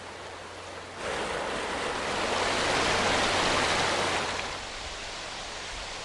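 Rushing river water, a steady noise that swells louder about a second in and eases back after about four seconds.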